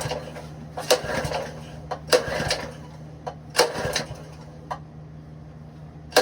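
Ironton 208cc single-cylinder engine being cranked with its recoil pull-starter: three pulls, each a sharp snap followed by a short rasping whirr, without the engine catching.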